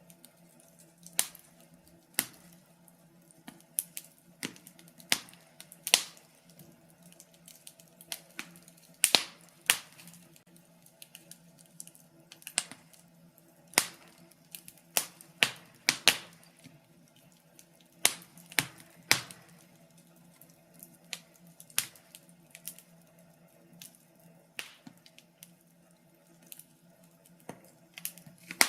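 Wood fire in a fireplace crackling, with irregular sharp pops and snaps of burning logs, a few louder than the rest, over a faint steady hum.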